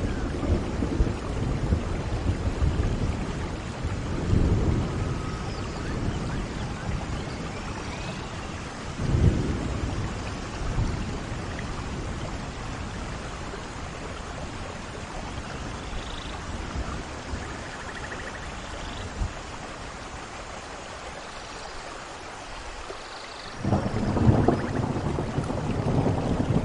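Steady rain falling in a forest, with low rumbles of thunder swelling a few times; the loudest rumble begins near the end.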